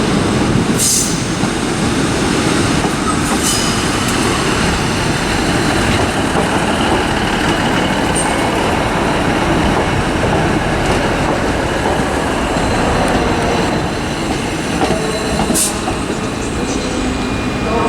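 ScotRail class 156 diesel multiple unit running into the terminus platform, its diesel engines and wheels making a steady, loud rumble with a few short sharp clicks over the rails.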